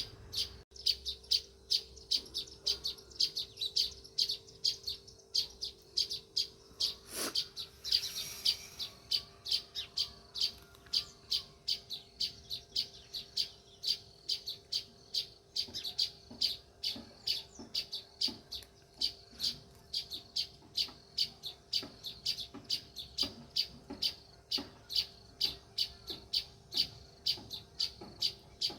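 House sparrows chirping continuously, a steady run of short chirps about two to three a second, over a faint steady hum. A single sharp click sounds about seven seconds in.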